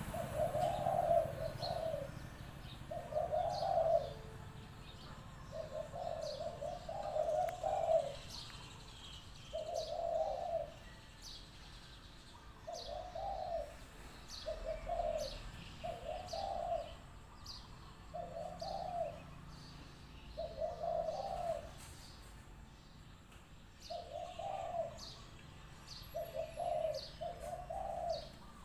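Spotted doves cooing, phrase after phrase every second or two, some in quick pairs, while small birds chirp sharply above them.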